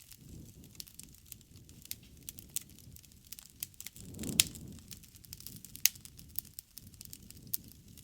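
Wood campfire crackling with frequent sharp pops, one loud pop about halfway through, over a low rumble that swells and fades.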